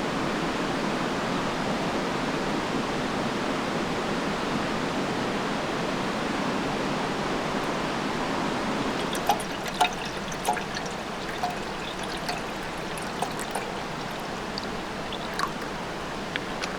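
Steady rush of running water. From about halfway it eases a little and a scatter of light clicks and clinks comes in.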